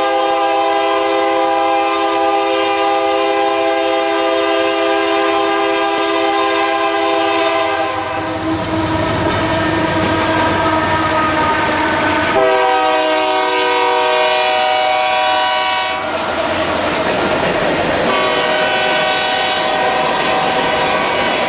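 Freight train horn on a Union Pacific diesel locomotive blowing a long chord three times: for the first eight seconds, again about twelve seconds in, and more weakly near the end. Between and under the blasts the locomotives and then the covered hopper cars run past, the wheels clattering over the rail joints.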